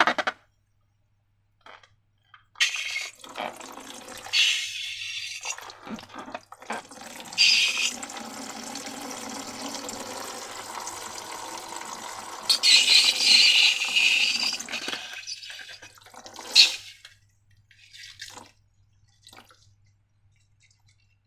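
Wet slime sounds: liquid slime being poured and squished, dripping and sloshing in several louder bursts over a steadier wet noise, then a few faint sticky clicks near the end.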